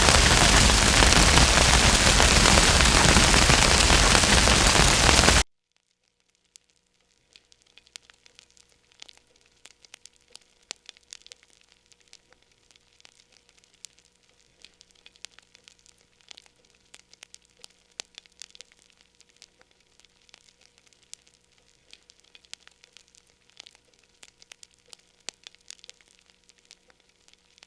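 A loud, even rushing noise cuts off suddenly about five seconds in. After that, a wood fire in a fireplace crackles faintly with scattered sharp pops, over a low steady hum.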